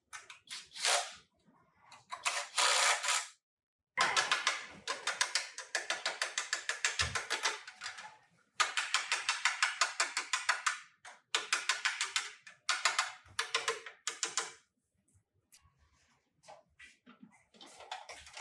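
Ratchet wrench clicking in several quick runs of strokes, about six to eight clicks a second, with short pauses between runs.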